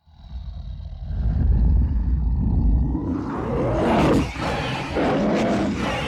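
Deep animal roars and growls, starting abruptly from silence with a low rumble that swells about a second in, then long roars that rise and fall in pitch.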